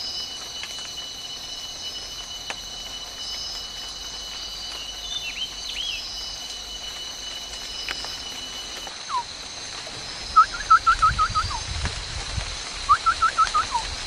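A bird calling in two quick runs of short, rising chirps in the second half, about seven notes and then five, over a steady high insect drone.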